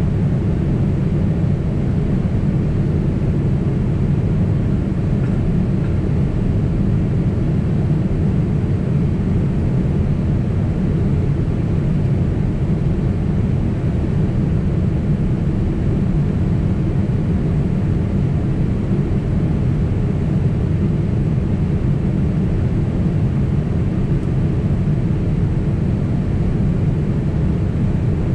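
Steady cabin noise of a Boeing 767 airliner in flight: an even, low rumble of the engines and rushing air, unchanging throughout.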